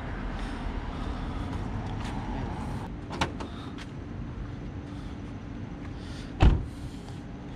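Steady low rumble around a car, with a light click about three seconds in and a single loud thump about six and a half seconds in.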